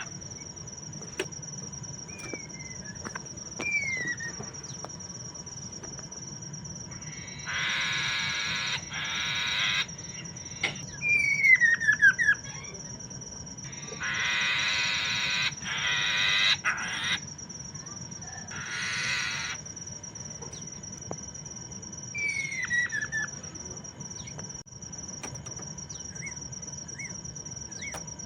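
Masked laughingthrush (poksay mandarin) calling: harsh, rasping chatter in bursts of a second or two, between short descending whistled notes. The loudest notes come about a third of the way in.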